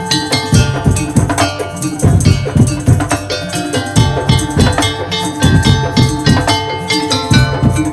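Madurese tong-tong music: an ensemble of wooden slit drums and drums playing a fast, driving rhythm, with held melodic notes over the percussion.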